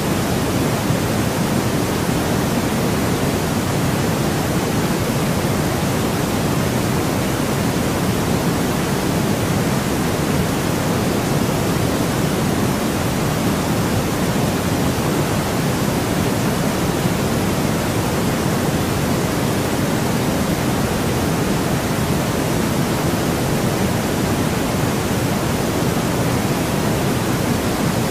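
Steady white noise from a sleep-sound track: an even, unchanging hiss with no events, fuller in the lows than in the highs.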